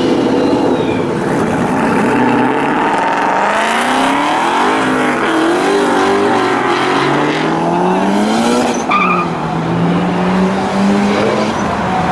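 A car engine revving hard as the car pulls away: its pitch climbs, drops, climbs again and then holds steady, over a loud rushing hiss.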